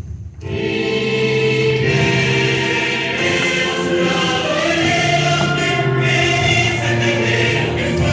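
A choir of voices singing held notes over musical accompaniment, coming in about half a second in after a brief break in the music.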